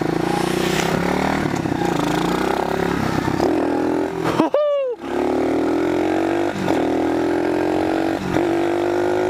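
Pit bike engine pulling away under throttle, its pitch climbing steadily. About four and a half seconds in the revs fall away sharply and the sound nearly cuts out, then the engine picks up and climbs again, with two brief dips in revs later on.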